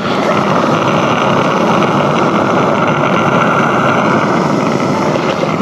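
Butane gas hissing steadily from a canister into the gas tank of an Accucraft Dora live-steam locomotive as it is filled.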